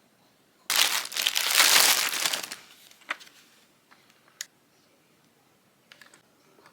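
Packaging crinkling and rustling for about two seconds as an item is unboxed, followed by a few light clicks and taps.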